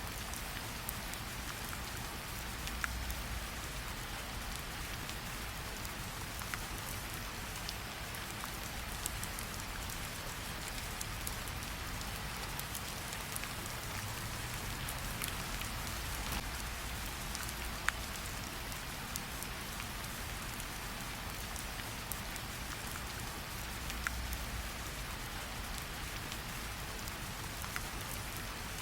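Steady rain falling, with scattered single sharp pops and crackles from a campfire heard through it.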